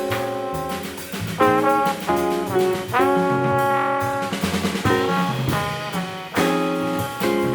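Live jazz quartet playing: trombone carrying long held notes, some sliding into pitch, over guitar, bass and drum kit with cymbal strokes.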